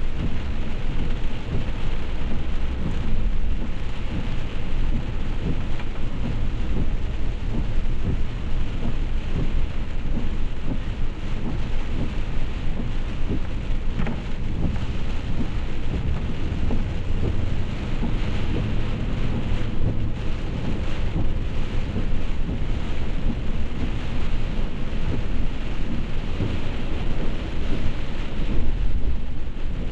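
Heavy rain falling: a steady, dense hiss of rain on surfaces over a constant low rumble.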